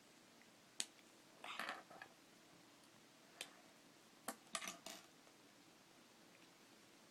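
Small plastic Lego pieces being handled and pressed together: a few sharp clicks and short clattery rattles, with a cluster about a second and a half in and another near five seconds.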